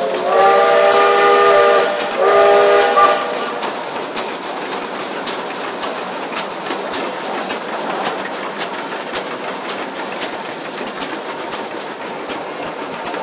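Case steam traction engine's steam whistle blowing two blasts of several pitches at once, the first longer than the second. The engine then runs on with a steady beat of sharp clicks, about two a second.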